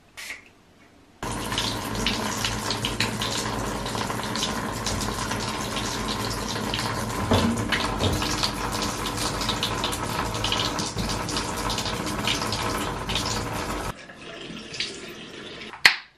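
Water running steadily from a tap, starting abruptly about a second in and cutting off shortly before the end, with light knocks over it.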